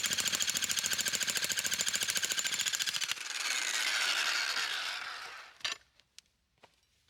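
Jackhammer fitted with an axe-head bit hammering rapidly. It stops about three seconds in and the machine winds down with a falling whine. A single sharp knock follows near the end.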